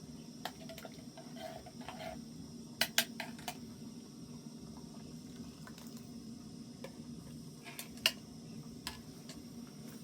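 Scattered light clinks and knocks of small hard objects being handled, with a cluster about three seconds in and a sharp one about eight seconds in, over a steady low hum.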